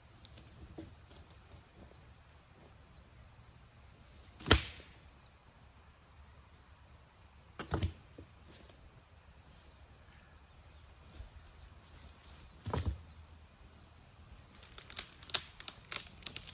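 Steady high-pitched insect chirring in a field, broken by three sharp knocks a few seconds apart, the first the loudest, and then a quick run of lighter clicks near the end.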